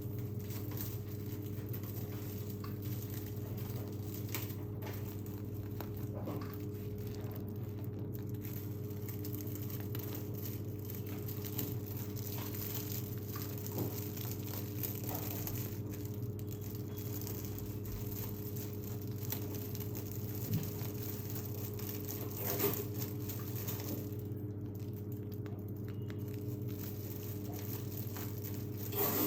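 Steady low electrical hum with faint crinkling and squishing of cake-decorating handling, and a few small clicks and taps.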